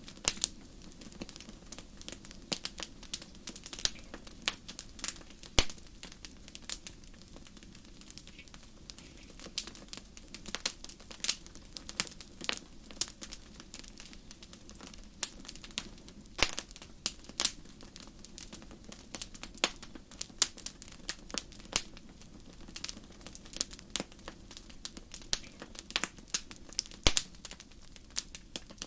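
Wood campfire crackling: irregular sharp pops and snaps, some much louder than others, over a steady low background.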